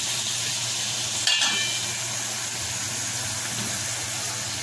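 Mutton heart and kidney masala sizzling steadily in a steel pan, with one sharp metallic clink about a second in. Water is poured into the pan near the end.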